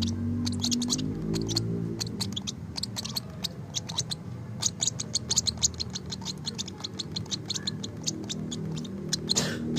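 Baby lovebird chirping in rapid, very short high peeps, many a second, over background music. A brief rushing noise near the end.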